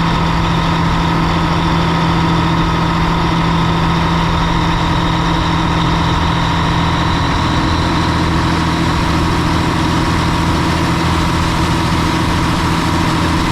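Heavy diesel engine running steadily at constant speed, with a steady whine over it.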